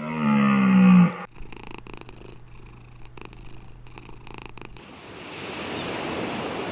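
A cat purring steadily for about three and a half seconds. Before it, a drawn-out low animal call ends about a second in. After it, a steady rushing noise like running water takes over.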